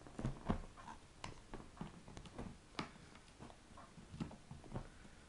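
African grey parrot chewing on an apple tree branch, her beak giving off faint, irregular cracks and clicks as she strips the bark and wood.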